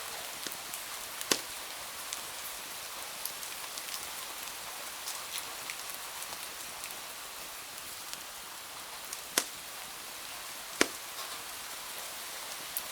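Steady rain hiss with a wood fire crackling over it in small sharp snaps. Three louder pops stand out: one about a second in and two close together near the end.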